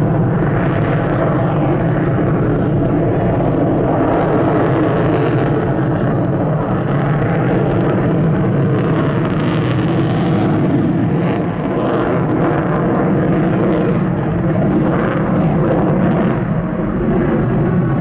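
F-35A Lightning II's Pratt & Whitney F135 turbofan, a loud, steady jet engine noise from a single fighter flying its display, with no real break.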